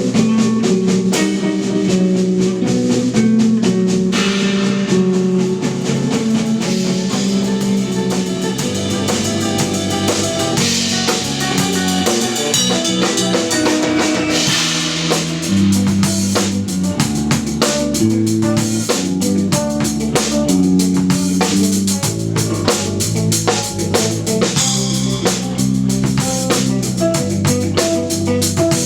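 Live instrumental post-rock trio playing: electric guitar, electric bass and drum kit, with sustained guitar notes over a moving bass line and steady drumming.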